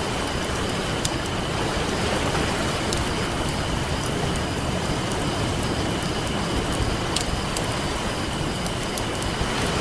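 Campfire crackling with scattered sharp pops over a steady wash of ocean surf.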